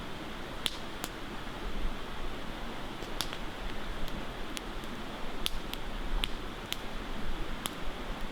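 Campfire crackling: irregular sharp pops and snaps of burning wood over a steady hiss.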